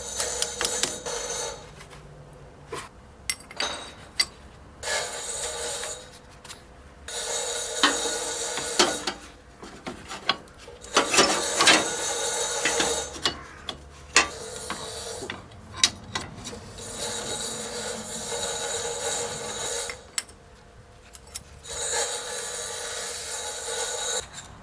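Steel parts and hand tools clinking and rattling during reassembly of a manure spreader's ratchet feed mechanism. The metallic rattling comes in repeated bursts of a few seconds, with scattered clicks between them.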